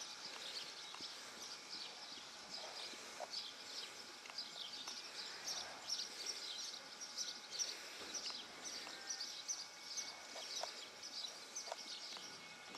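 Small birds chirping continuously, many short high chirps overlapping, over faint outdoor background noise.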